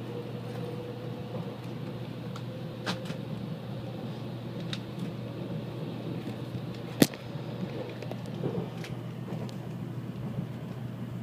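Steady running noise of a moving Japanese bullet train, with a faint steady whine, a few light clicks and one sharp click about seven seconds in.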